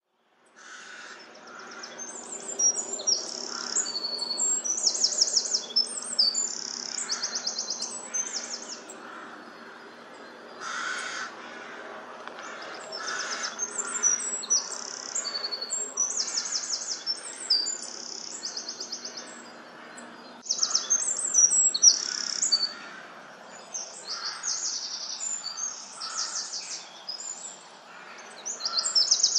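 Birds calling outdoors: many quick, rapidly pulsed high chirps and trills repeating throughout, with a few louder, harsher calls about a third of the way in, over a faint steady low hum.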